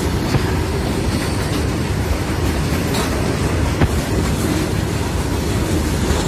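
Coal-loaded freight train of open box wagons rolling past close by at speed: a steady rumble of steel wheels on the rails, with a few sharp clicks about three to four seconds in.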